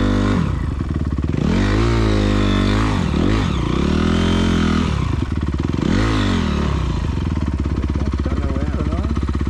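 Honda CRF250R single-cylinder four-stroke dirt bike engine revving up and down in several short throttle bursts, then settling to a steady idle about seven seconds in.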